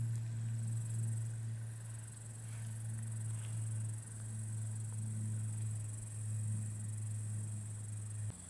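Insects chirring steadily and high-pitched, over a louder low steady hum that cuts off suddenly near the end.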